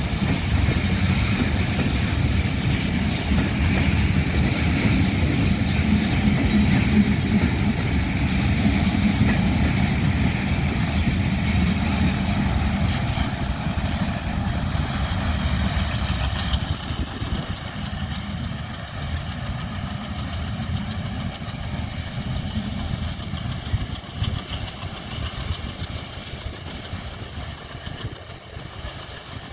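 Long broad-gauge passenger train's coaches rolling past on the rails with a steady rumble, which fades from about halfway through as the train moves away.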